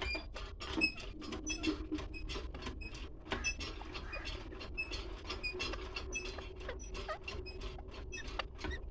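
A rapid, irregular stream of short chirps and clicks from birds, over a steady low hum.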